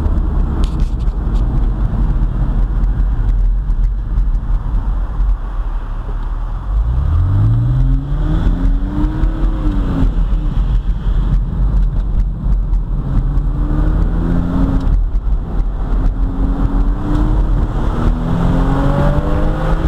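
Porsche 911 Carrera S (997) 3.8-litre flat-six heard from inside the cabin while driving, over a steady low rumble of road noise. About seven seconds in the engine note climbs steeply as the car accelerates, then levels off, and it rises again under acceleration near the end.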